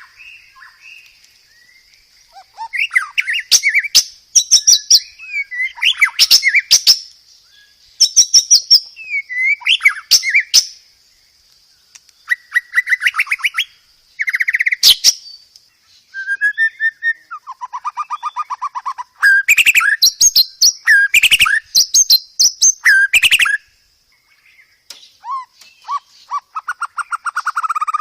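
White-rumped shama (murai batu) song: loud, varied phrases of rapid trills, whistles and sharp clicks, each lasting a second or two with short pauses between them. A faint steady high tone runs underneath.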